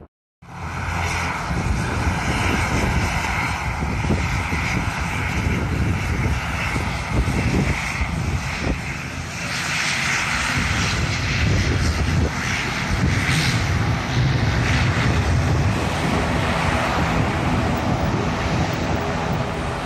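Jet airliner's engines passing close overhead: a steady rushing noise with a high whine. It begins abruptly after a split second of silence.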